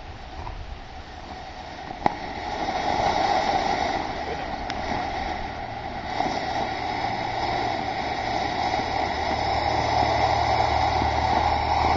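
Ground fountain firework burning. A sharp pop about two seconds in, then a steady rushing hiss that swells about three seconds in and keeps going.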